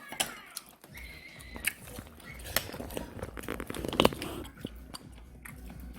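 Someone eating at a table: chewing, with scattered sharp clicks and taps of utensils on dishes, the loudest a single knock about four seconds in.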